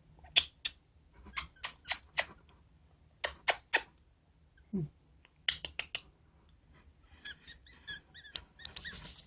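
A pet bird shaking its head: quick sharp rustling clicks in groups of two to four. Soft little chirps follow near the end.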